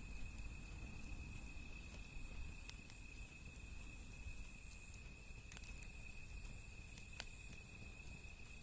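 Wood fire burning, faint, with a few sharp crackles and pops, over a steady high insect trill.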